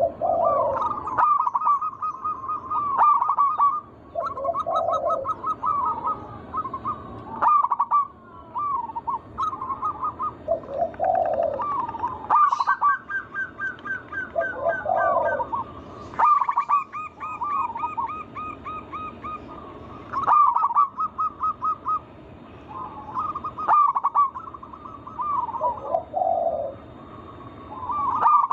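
Zebra doves (perkutut) cooing. Phrases of quick, rippling high coos repeat every few seconds and sometimes overlap, with a few deeper coos among them.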